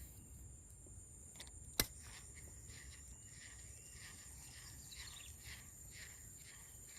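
Steady high-pitched insect drone, with one sharp click a little under two seconds in and soft repeated ticking after it.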